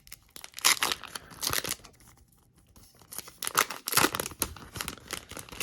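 Foil Pokémon card booster pack being opened by hand, crinkling and tearing in two bouts of sharp crackles.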